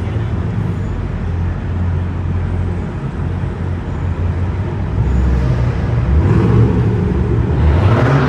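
Car engine and exhaust running with a steady low drone, then rising in pitch near the end as it revs up and accelerates.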